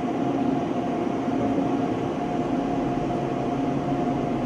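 Military jet engine running steadily in a test cell: a constant rush of noise with a steady whine through it.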